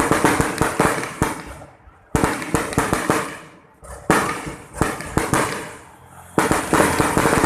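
Fireworks going off in salvos of rapid, sharp bangs and crackles. A new salvo starts about every two seconds, four in all, each fading out before the next.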